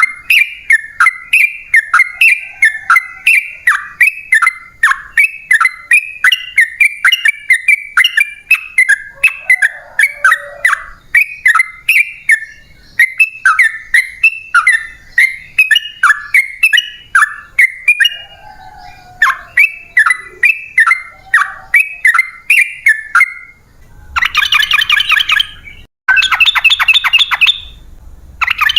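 Yellow-vented bulbul (trucukan) singing: a fast run of short, repeated bubbly notes, about two to three a second. Near the end these give way to three dense, harsher chattering bursts.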